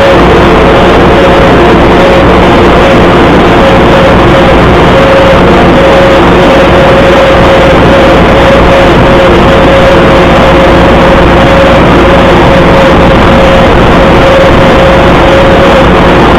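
Fordson Super Major's four-cylinder diesel engine running steadily under load while driving a Bush Hog rotary mower, very loud and distorted, with a steady whine over the engine noise.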